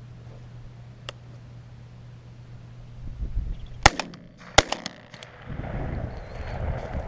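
Two shotgun shots about two-thirds of a second apart, sharp and loud, fired at doves. A rushing noise follows.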